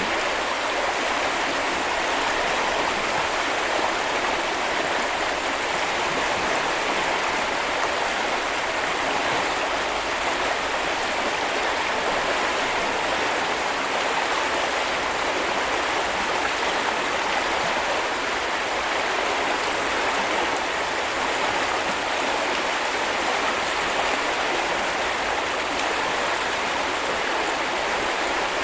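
Steady rushing and babbling of a small river or brook, water flowing over stones without a break.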